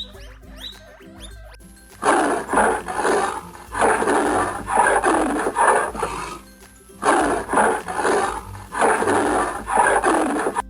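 An animal roaring in a series of rough calls, starting about two seconds in, over background music.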